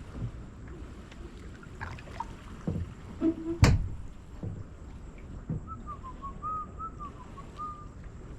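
Kayak paddling: paddle strokes in the water with a few knocks against the hull, the loudest a single sharp knock about midway. A short wavering whistle follows near the end.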